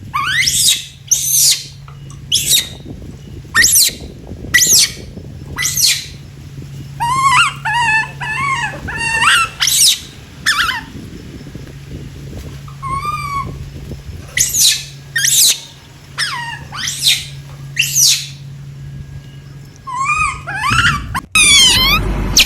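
An animal calling in a series of sharp, high chirps, roughly one a second, with bursts of quicker warbling calls partway through and near the end, over a steady low hum.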